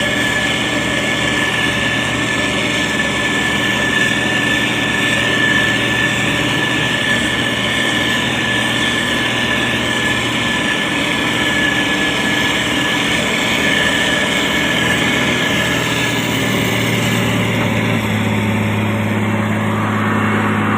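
Motor grader's diesel engine running steadily with a high whine over it. The whine fades out about sixteen seconds in, and the engine note changes soon after.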